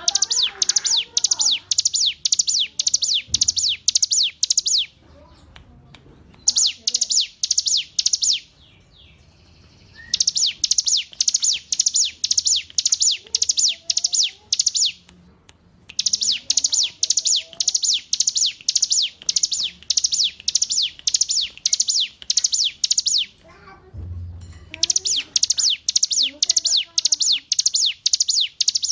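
Ciblek gunung (a mountain prinia) singing: long runs of sharp, high, evenly repeated notes, about three a second, in phrases of several seconds broken by short pauses. Fainter, lower chirps come through in the gaps.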